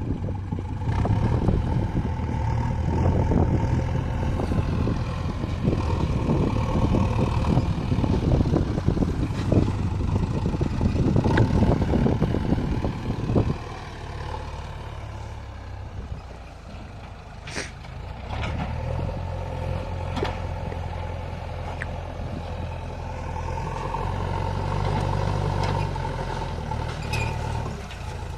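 Heavy diesel vehicle engine running, rough and rattling for the first half, then abruptly dropping to a quieter, steadier drone about halfway through, with a few sharp clicks.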